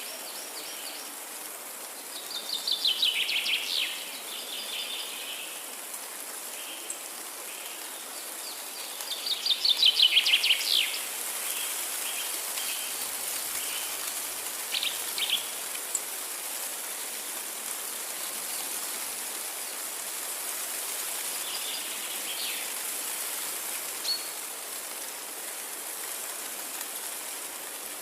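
Forest ambience: a songbird sings two loud, rapid trilled phrases, one a couple of seconds in and one about ten seconds in, with a few softer calls later, over a steady high hiss.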